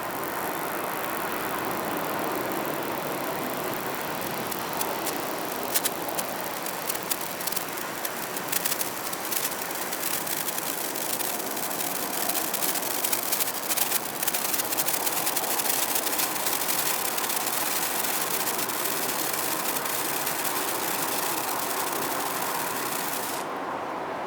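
Japanese senko hanabi sparkler burning, its sparks crackling and spitting in quick irregular bursts, thickest in the middle stretch, over a steady hiss of outdoor background noise.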